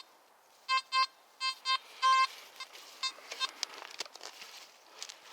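Nokta Makro Simplex Plus metal detector beeping: about five short target tones in quick succession, the last a little longer, as the coil passes over buried metal in ground littered with small scrap. Faint rustling steps through forest litter follow.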